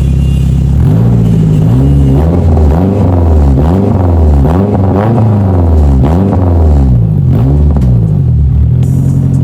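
Honda K24 four-cylinder engine in a Civic EG, revved through a custom exhaust in repeated quick throttle blips, its pitch rising and falling over and over before settling near the end.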